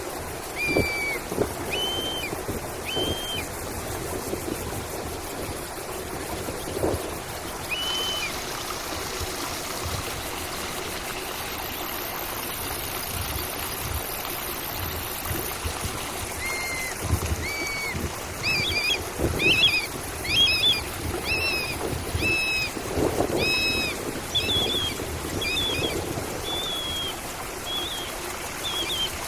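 Running stream water trickling and gurgling steadily, with a bird calling in short clear whistled notes: a few spaced notes at first, then a quick series of repeated notes in the second half.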